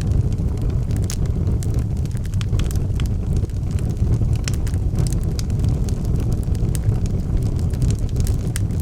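Logs burning in a fireplace: a steady low rumble of the flames with frequent, irregular sharp crackles and pops.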